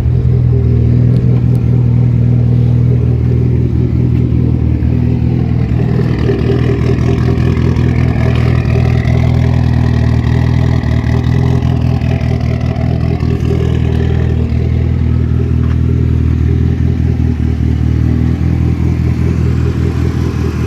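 Mitsubishi Evolution X rally car's turbocharged 4B11 four-cylinder engine running in neutral with its anti-lag system on to build boost, holding steady revs with a rough, rapid-firing note.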